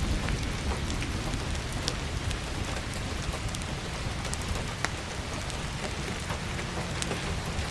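Steady heavy rain with a low rumble underneath, and scattered sharp crackles and pops from a wood fire.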